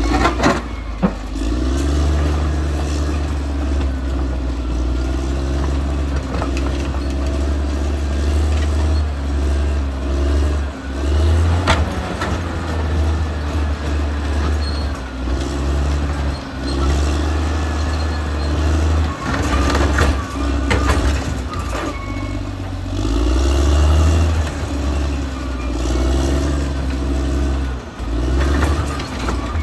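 Caterpillar D6R XL bulldozer's diesel engine running under load, its note rising and easing every few seconds as it works, with a few sharp clanks.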